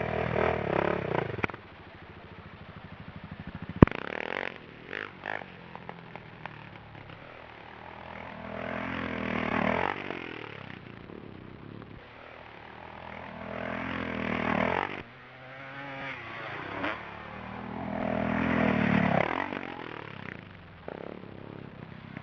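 Off-road motorcycle engine revving up and easing off three times, about five seconds apart, as for runs over jumps. A single sharp click comes about four seconds in.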